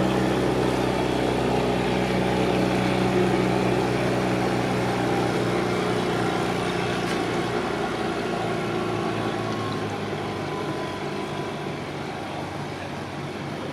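A boat's engine running at a steady low speed, a deep even hum that slowly fades as the boat moves away.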